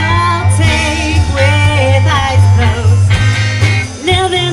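Live band playing a song, with a sung vocal line wavering in pitch over a strong bass and guitar.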